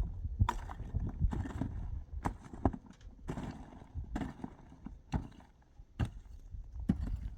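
Irregular knocks and thuds, roughly one or two a second, with scraping noise between them.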